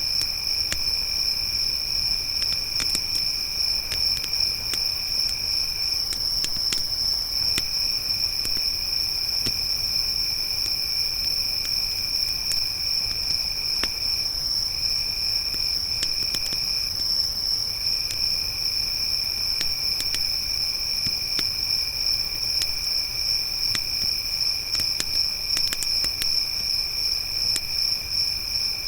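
Crickets chirping steadily in two layers: a higher continuous trill and a lower one that pauses briefly a few times. Small scattered pops from a crackling campfire sound over a low, even rumble.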